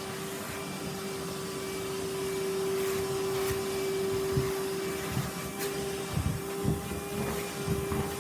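Vacuum cleaner running with a steady hum while its nozzle is worked over a sofa. From about halfway on, irregular low bumps come as the nozzle is pushed around the cushions.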